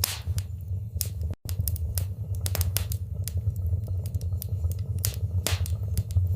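Wood fire in a fireplace crackling: irregular sharp pops and snaps, a few with a short hiss, over a steady low rumble of the flames. The sound drops out for an instant about one and a half seconds in.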